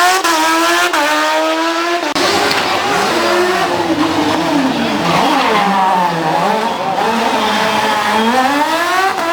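Historic rally car engine at high revs, climbing hard for the first two seconds, then dropping and rising several times as the car is driven sideways, and climbing again near the end, over tyre noise.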